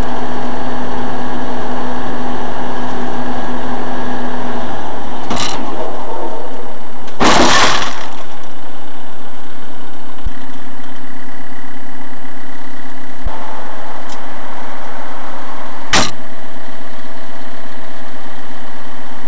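Loud, overloaded car engine and road noise as picked up by a dashcam, with a steady hum. It is broken by a few sharp knocks, the biggest a loud bang about seven seconds in, and another near the end.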